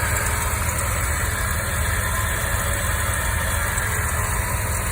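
Mazda RX-7 FD3S's 13B twin-rotor rotary engine idling steadily, with an abnormal noise from its power steering pump, a sign of a worn pump due for replacement with a rebuilt unit.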